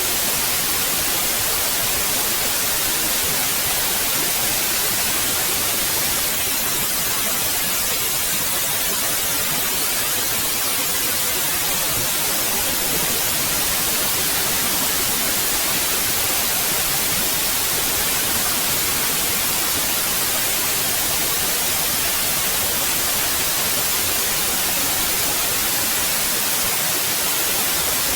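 Steady white noise: an even hiss across all pitches, brightest in the treble, unchanging throughout.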